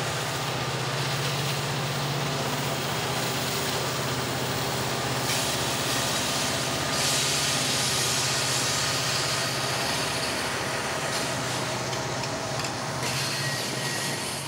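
Freight train passing: its diesel locomotives run with a steady low drone under the continuous noise of steel wheels on the rails. The wheel noise gets brighter and hissier from about seven seconds in to about thirteen.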